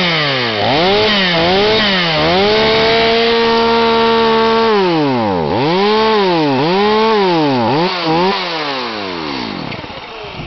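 Stihl MS250 two-stroke chainsaw being revved: the throttle is blipped up and down several times, held at high revs for about a second and a half, blipped again, then let fall back as the engine winds down near the end.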